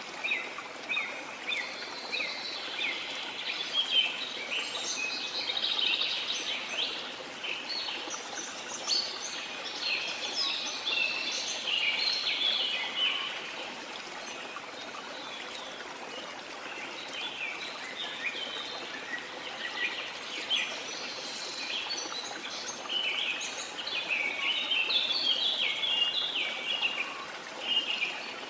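Many birds chirping and calling over the steady rush of a waterfall. The birdsong thins out for a few seconds in the middle, then picks up again.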